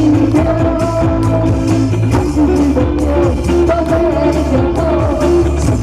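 Live band playing an instrumental passage of a Mandarin pop song: electric bass and guitar over a steady drum beat, with sustained melody notes in the mid range.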